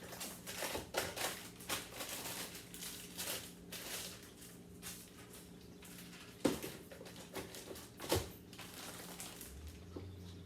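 Plastic food packaging rustling and crinkling as it is handled, with irregular small clicks and two sharper knocks about six and a half and eight seconds in.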